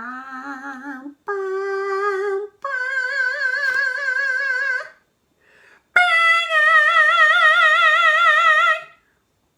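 A voice singing four long held notes with strong vibrato, each higher than the last, the fourth the loudest, in an operatic style.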